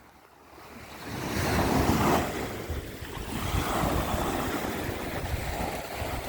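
Sea waves breaking and washing up the shore, swelling about a second and a half in and again around four seconds, with wind rumbling on the microphone.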